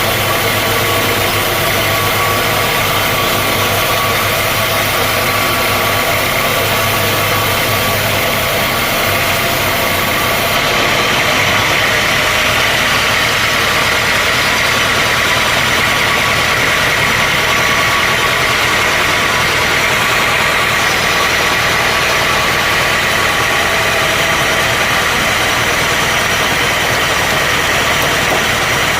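Sawmill machinery running steadily: a loud mechanical drone with a steady high whine. About ten seconds in, the low hum drops away and the whine grows stronger.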